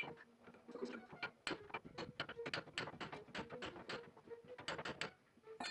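A rapid, irregular series of sharp clicks, several a second, fairly faint.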